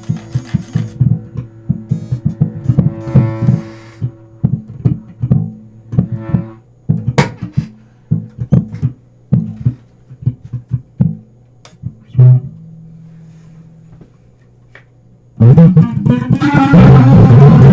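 Electric bass and guitar playing loose plucked notes over held low tones, thinning out to a single low note that dies away about twelve seconds in. About fifteen seconds in, a full, loud band sound with drums comes in abruptly.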